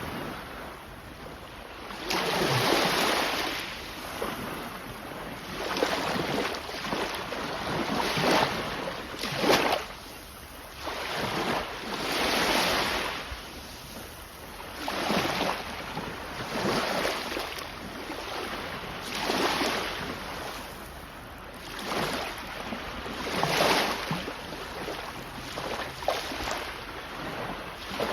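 Sea waves washing onto the shore, each swell rising and falling away every two to three seconds.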